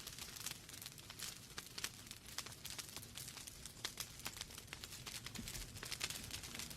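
Wood logs burning in a fireplace, crackling with a dense, irregular run of small snaps and pops over a low steady rumble of flame.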